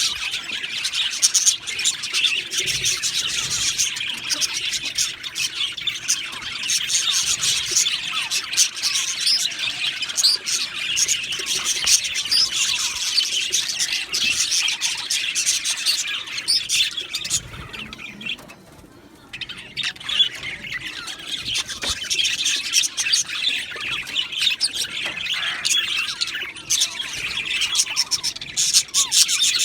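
A flock of budgerigars chattering and chirping without a break, dense overlapping calls from many birds, with a brief lull about two-thirds of the way through.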